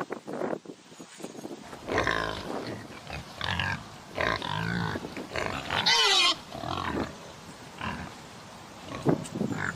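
Pigs grunting and squealing in a run of short calls, with the loudest, highest-pitched squeal about six seconds in.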